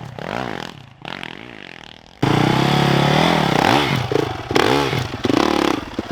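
Yamaha YZ450FX's single-cylinder four-stroke engine being revved in short throttle blips, its pitch rising and falling with each one. The engine is quieter for the first two seconds, then suddenly much louder, with several quick revs in a row.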